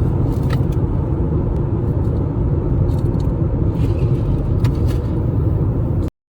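Loud, steady low rumble with no clear pitch, like road noise in a moving car or wind buffeting the microphone, cutting off abruptly near the end.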